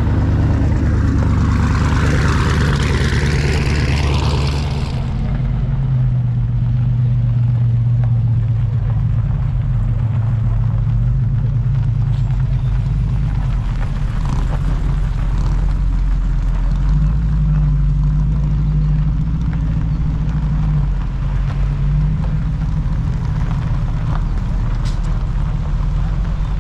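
A car engine running with a steady low drone whose pitch shifts up and down a few times. A loud hiss covers the first five seconds and then stops.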